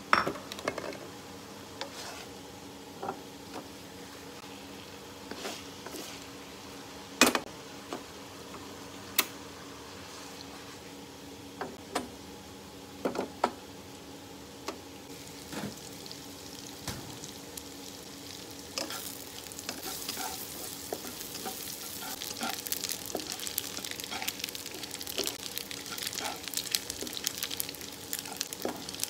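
Spatula knocking and scraping in a nonstick wok a few times, over a steady low hum. From about 19 seconds in, hot oil sizzles and crackles continuously as small dried fish fry and are stirred.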